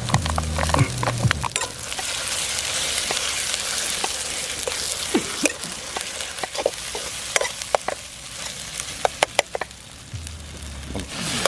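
Food sizzling as it fries in oil in a kadai, with a spatula stirring and knocking against the pan in many sharp clicks. The sizzle is strongest through the middle and dies down near the end.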